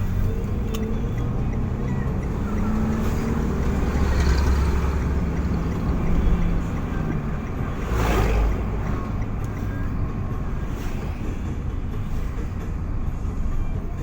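Motor vehicle on the move: steady engine and road rumble, with a brief louder rush about eight seconds in.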